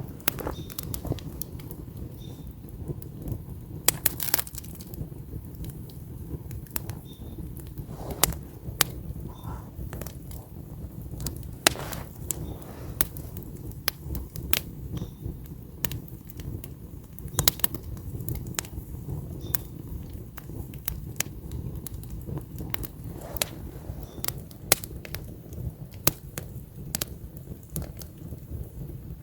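Wood campfire burning: logs crackling with irregular sharp pops over a steady low rumble of the flames.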